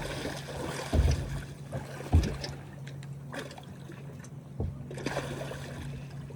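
Water sloshing and splashing around a man wading beside a dock, over a steady low engine hum. Two dull thumps come about one and two seconds in.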